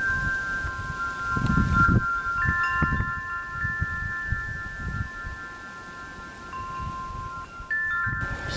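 Wind chimes ringing, several long-sustained tones overlapping and changing as the tubes are struck, with wind gusting on the microphone.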